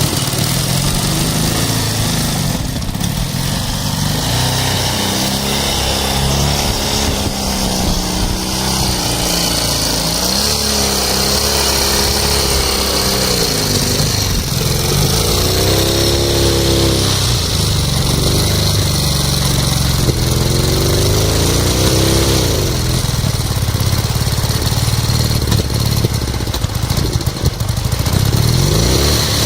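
Ural motorcycle's flat-twin engine running, revved up and back down several times, mostly in the second half.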